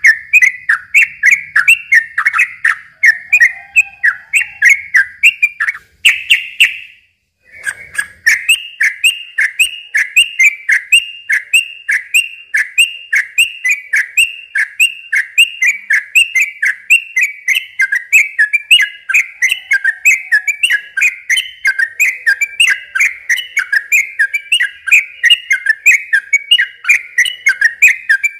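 Yellow-vented bulbul (trucukan) singing a long, rapid run of short repeated whistled notes, about three a second, with a brief pause about seven seconds in.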